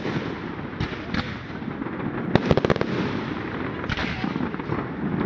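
Fireworks going off: clusters of sharp bangs and cracks about a second apart, over a constant rumble and crackle of further explosions.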